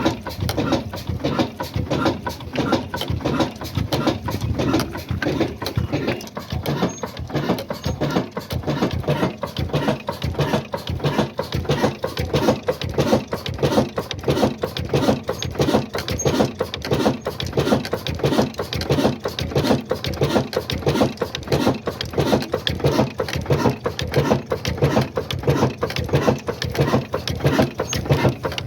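Old Ruston Hornsby diesel engine running steadily with an even, repeating beat of about two pulses a second.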